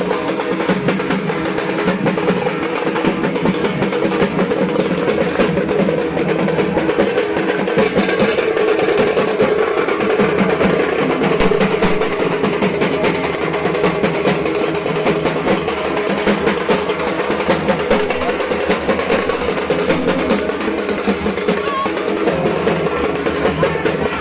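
Dhak, the large Bengali barrel drum, played with sticks in a fast, unbroken roll of dense strokes.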